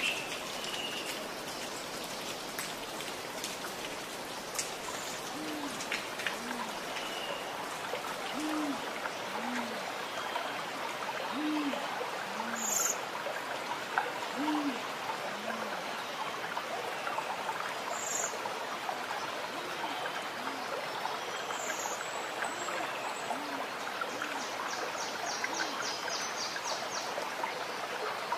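A steady hiss like rain, with a bird's low two-note hoot, a higher note then a lower one, repeated every few seconds from about five seconds in. A few short high chirps come over it.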